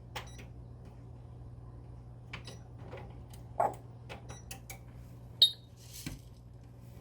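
Light clicks and taps of cooking utensils over a low steady hum, with a pet bird's short high chirp about five and a half seconds in.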